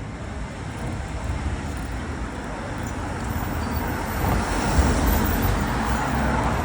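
Road traffic noise, with a vehicle passing close by that swells in level about four seconds in.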